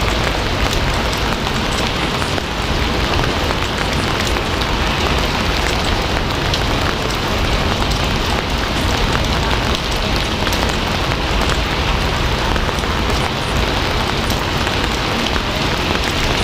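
Steady heavy rain falling on a surface, a dense even hiss full of individual drop ticks.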